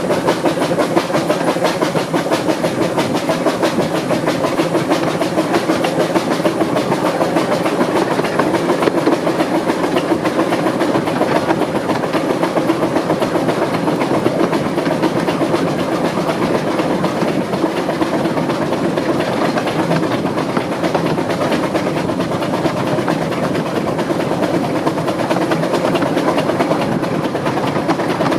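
15-inch gauge steam locomotive 'Northern Rock' working hard up a steep gradient: its chimney exhaust beats come in a rapid, steady, even rhythm throughout.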